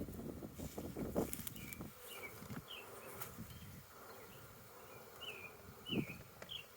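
Honeybees buzzing in a steady hum around an opened hive during a split, a colony the beekeeper calls stressed. A few short knocks and rustles sound through it, the loudest near the end, along with small high chirps.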